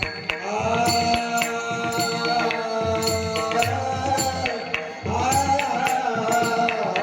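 A song: a voice holding long, slowly bending notes over drum and shaker percussion.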